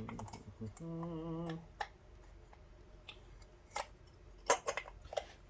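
A brief hum from a man about a second in, followed by a few sharp small clicks and taps of metal carburetor parts being handled and fitted.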